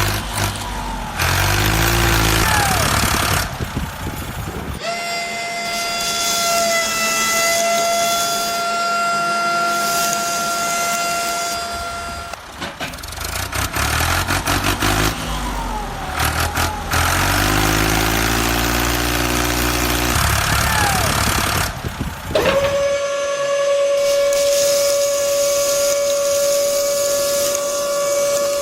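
Engine running in stretches, broken by two long steady horn blasts, the first lasting about seven seconds and the second starting a little over 22 seconds in.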